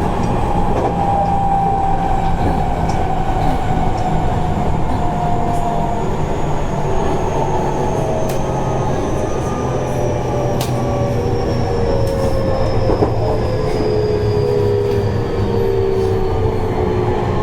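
Seibu 30000 series electric train heard from inside the car, running on the rails with a steady rumble while the whine of its inverter-driven traction motors falls slowly in pitch as the train slows down. A few sharp clicks come through over the running noise.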